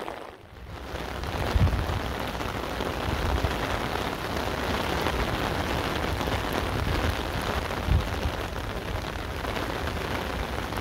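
Steady rain falling on wet paving and puddles, an even hiss, with two brief low thumps, one about a second and a half in and one near eight seconds.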